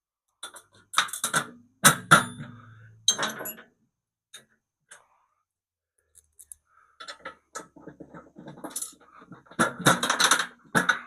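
Steel bolts, washers and other fastening hardware clinking and knocking against metal as they are handled. There are a few sharp clinks in the first few seconds, one ringing briefly, then a busier run of clinks and rattling near the end.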